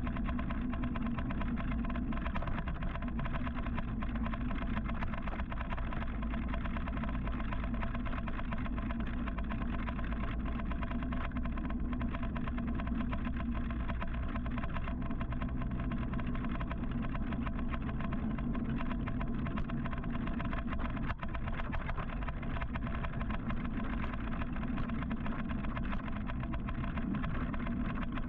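Steady road and wind noise from riding an electric motorcycle in city traffic, with a constant low rumble and the hum of surrounding vehicles.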